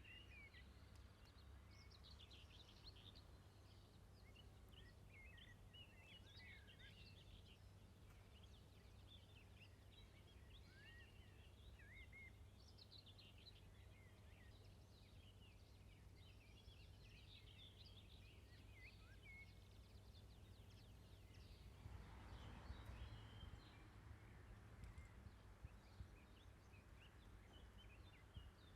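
Faint outdoor ambience: many small birds chirping and trilling over a steady low background rumble, with a brief swell of wider noise a little over two-thirds of the way through.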